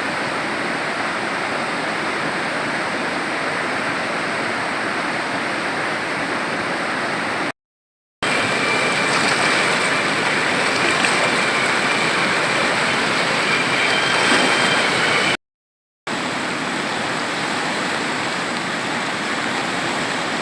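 Swollen floodwater of the Kali Gandaki river rushing: a steady, even noise of heavy flowing water, in three stretches separated by two short breaks of silence, the middle one slightly louder.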